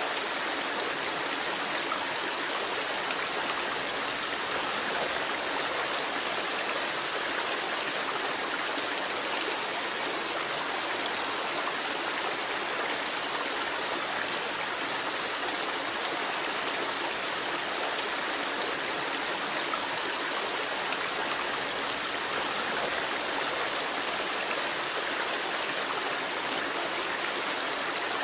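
Babbling creek: water flowing steadily over stones in an even, unbroken rush.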